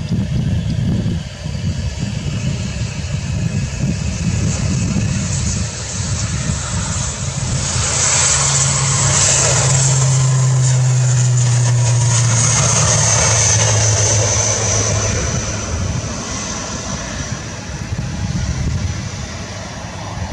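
ATR 72 turboprop airliner passing, its propellers giving a low steady hum over engine noise. The hum and a high turbine whine swell about eight seconds in, the whine sliding down in pitch as the aircraft goes by, then the sound fades.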